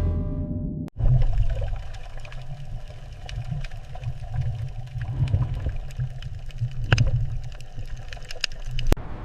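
Music fading out in the first second, then a low rumbling water ambience, likely underwater, with scattered clicks and pops.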